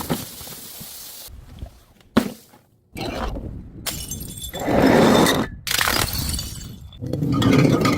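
Glass bottles shattering and crunching in several separate bursts, each starting and stopping abruptly; the loudest comes about five seconds in.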